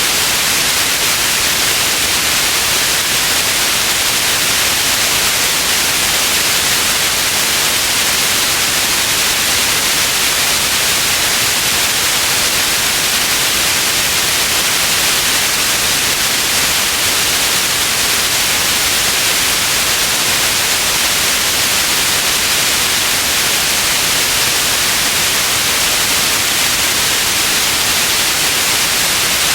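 Steady, unchanging white noise: an even hiss, brightest in the high frequencies.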